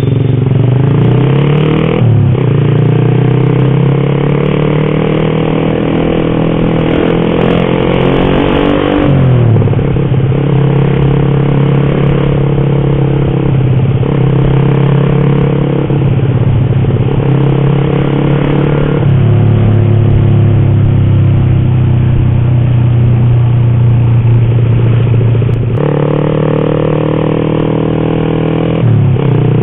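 Motorcycle engine heard from on board while riding: its pitch climbs as it accelerates, then drops sharply at each gear change, about three times, with long stretches at a steady cruising pitch in between.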